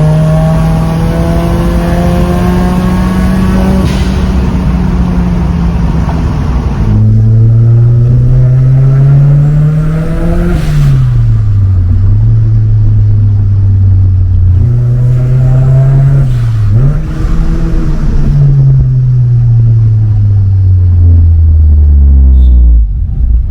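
Mitsubishi Lancer Evolution IV's turbocharged four-cylinder engine pulling through the gears, its note climbing and dropping back with each shift, then falling steadily as the car slows. Near the end the engine note cuts off suddenly as the car turns off on its own.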